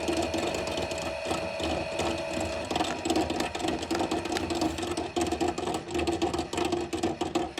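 A washing machine starting up and running: a steady motor hum and whine with rapid mechanical clicking and rattling. One higher tone cuts out about three seconds in.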